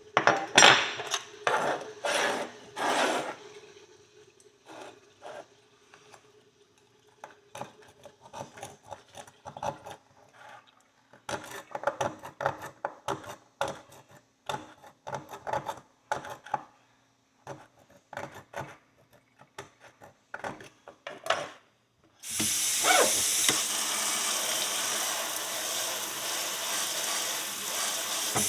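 Scattered clinks, knocks and scraping of things being handled, then from about two-thirds of the way in a kitchen tap running steadily into the sink.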